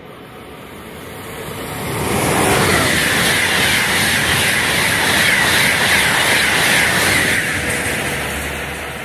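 Frecciarossa high-speed train passing at speed on the near track: the rushing rail and wheel noise builds over about two seconds, holds loud for about five, then fades as the train runs away.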